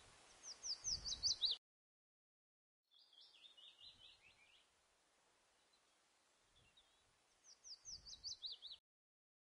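A songbird singing: a quick run of about eight high, down-slurred notes, heard twice, with a lower twittering phrase between them, over a faint low rumble of wind on the microphone. The sound cuts off abruptly after each high run.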